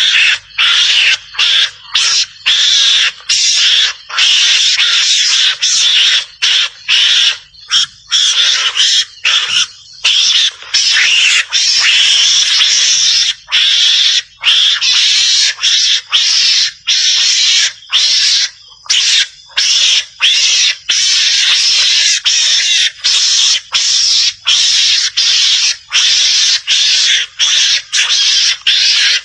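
Javan mongoose calling: a loud, dense run of shrill, rasping chatter, broken by many brief gaps. It starts abruptly out of silence.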